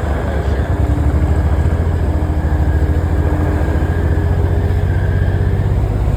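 Engine of a Takeuchi land-clearing machine running steadily under load, a low rumble with a faint steady whine above it.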